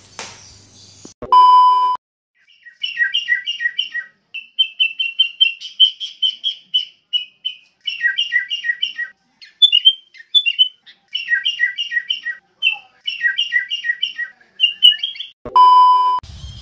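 A songbird singing quick repeated chirps in phrases of four or five notes, alternating between two pitches, with a few short trills, over no background at all. It is framed by a loud, steady electronic beep about a second in and another near the end.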